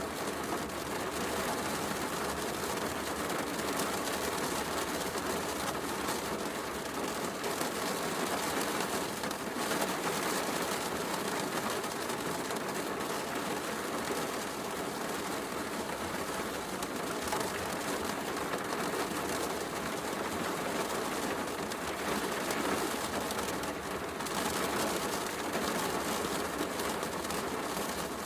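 Steady heavy rain, with a fireplace crackling softly underneath.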